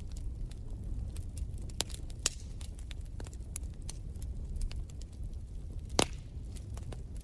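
Wood fire crackling in a fireplace: irregular sharp pops and snaps over a low steady rumble of the flames, with one louder pop about six seconds in.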